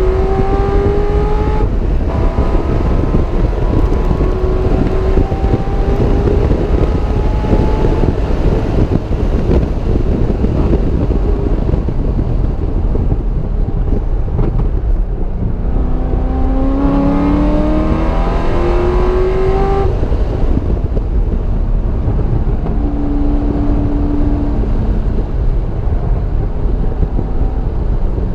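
Car engine heard from inside the car on track, pulling hard with revs climbing and breaking off at upshifts about two seconds in and again near twenty seconds, under a heavy, constant rumble of wind and road noise.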